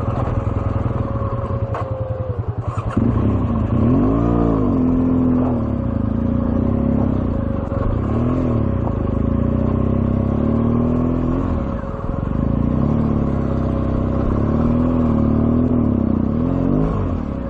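BMW R1200GS boxer-twin engine ticking over with slow, even pulses for about the first three seconds, then revving up and down again and again in short throttle bursts while crawling over rocks.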